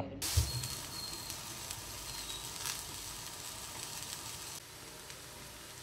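Grated coconut, sliced onion, curry leaves and garlic frying in oil in a kadai, a steady sizzle with fine crackles that turns a little quieter about four and a half seconds in. This is the dry-roasting of the coconut for a Kerala roasted-coconut (varutharacha) curry paste.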